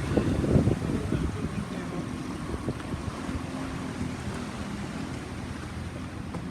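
Wind buffeting the microphone, heaviest in the first second or so, over a boat's engine running steadily.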